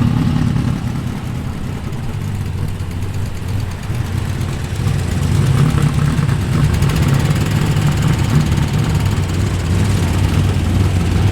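Low, steady rumble of a car engine running at low revs as a show car rolls in. It eases a little for a couple of seconds, then grows louder again about four seconds in.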